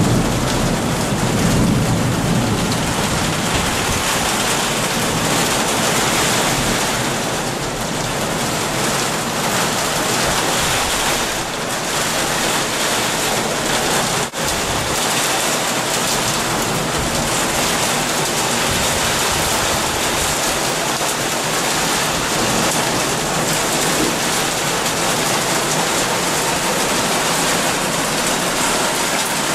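Heavy rain pouring down, a steady dense hiss, heard from a window. A low rumble sits under it in the first few seconds, and the sound drops out for an instant about halfway through.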